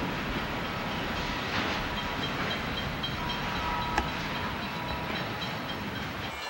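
Intermodal freight train rolling by: a steady rumble and rattle of the railcars, with faint thin high tones coming and going and one sharp click about four seconds in.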